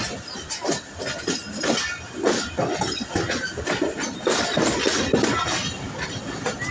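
Pakistan Railways diesel locomotive and its passenger coaches rolling past close by, the wheels clattering and clinking over rail joints and points in a dense, uneven run of knocks.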